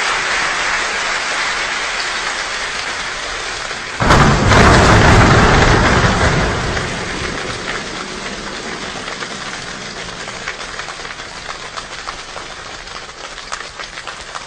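Heavy rain falling steadily. About four seconds in a sudden loud rumble breaks in and dies away over a few seconds, then the rain's hiss slowly eases, with scattered drops pattering near the end.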